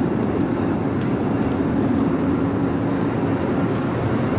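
Steady in-flight cabin noise of an Airbus A320neo: an even roar of airflow and engines with a steady low hum running through it.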